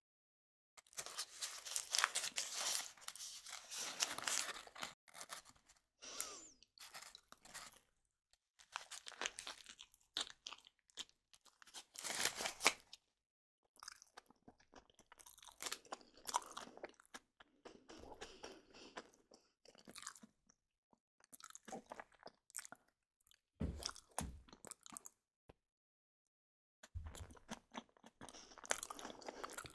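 Crunching, in irregular crackly bursts with short silences between them.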